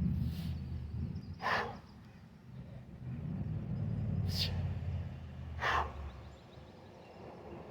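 A man breathing out hard three times in short, sharp breaths while straining through heavy kettlebell reps, about a second and a half, four and a half and almost six seconds in. A low rumble comes and goes beneath them.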